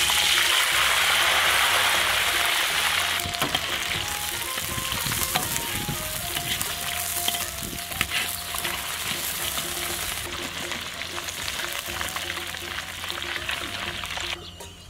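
Shrimp deep-frying in a wok of hot oil: a loud sizzle as they go in, strongest for the first few seconds, then steady bubbling and crackling as they are stirred with a wire strainer, stopping suddenly near the end.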